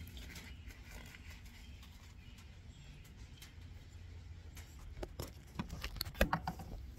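Oil filter and its housing cap being handled and set back into the engine bay: faint rustling over a low steady hum, then a quick run of sharp clicks and knocks of plastic parts from about five seconds in.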